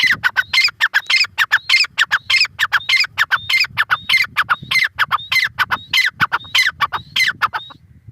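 Grey francolin calling: a loud, harsh phrase repeated over and over, a little under two a second, each with a thin high whistle-like note, ending near the close.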